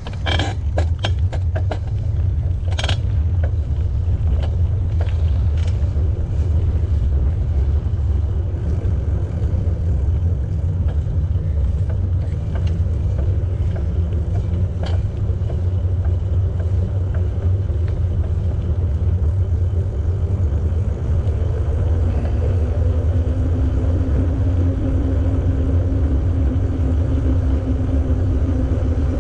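Steady low rumble of wind on the microphone of a moving bicycle, with a few sharp clicks in the first three seconds and a faint steady hum near the end.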